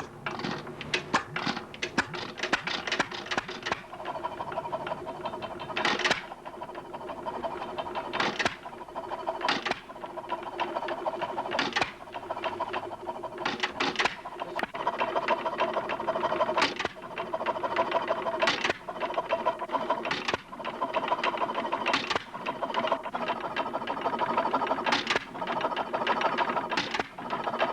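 Acadia single-cylinder make-and-break marine gas engine running just after a hand start: a steady mechanical clatter broken by sharp firing bangs. The bangs come in quick succession at first, then settle to one every one to three seconds.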